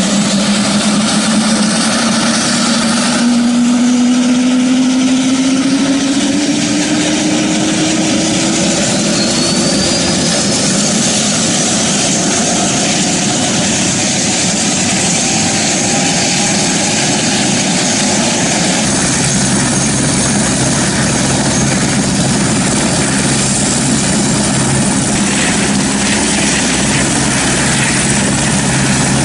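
Aircraft passing low overhead: a loud, steady roar with an engine tone rising in pitch over the first several seconds, and a deeper steady hum joining about two-thirds of the way through.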